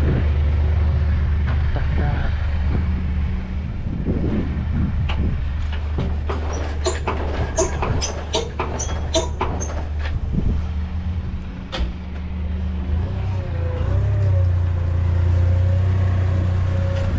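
A vehicle engine runs steadily throughout. A series of sharp metallic clicks and knocks comes in the middle. Near the end a whining tone comes in and the engine note grows louder.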